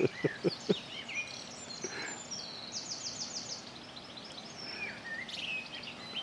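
Several wild songbirds singing and chirping, with a quick run of high repeated notes about three seconds in. A few short low thuds come right at the start.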